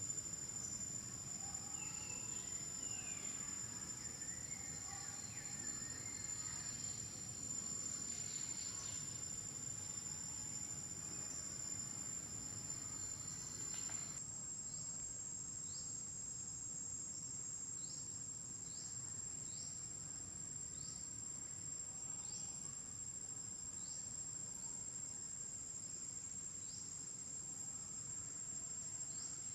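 Steady high-pitched drone of insects such as crickets. In the second half short chirps repeat about once a second over it, and the background shifts abruptly about halfway through.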